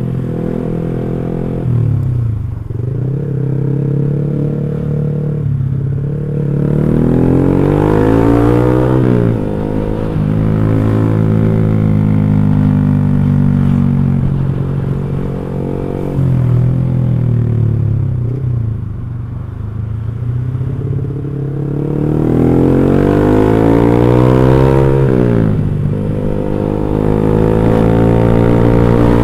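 Motorcycle with an X1 Speed aftermarket racing exhaust, ridden on the road: the engine note climbs and drops repeatedly as it accelerates and changes gear, with sharp climbs about a quarter of the way in and again near the end.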